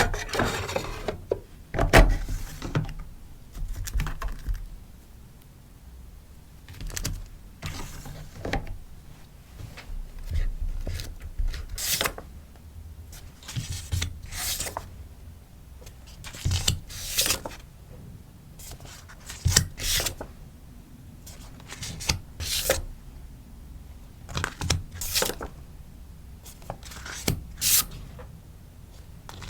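Sticker packaging being handled for an order: crinkly rustling of paper and plastic in irregular short bursts, with sharp taps between them.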